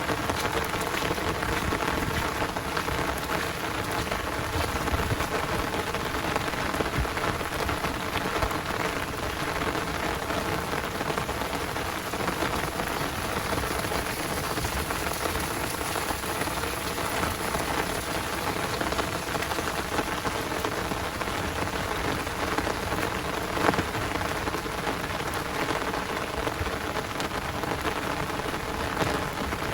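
Heavy downpour rain, a steady dense patter of drops hitting surfaces, with one sharper tap about two-thirds of the way through.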